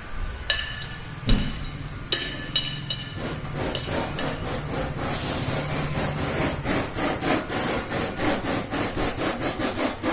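Hand tool work: a few sharp knocks, then a fast, even run of scraping strokes, about three a second, like sawing or rasping.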